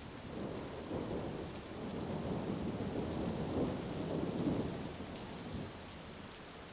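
A long roll of thunder over steady heavy rain, building from about half a second in, loudest around four seconds, and dying away near the end.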